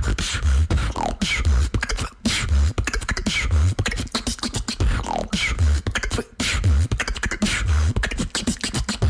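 Female beatboxer performing a fast beatbox routine: deep bass kick sounds about once a second under rapid sharp hi-hat and snare clicks, with falling vocal sweeps woven in.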